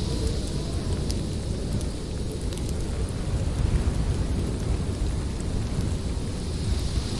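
Storm wind blowing with a deep rumble that swells and eases, and small sharp crackles of a wood fire scattered through it.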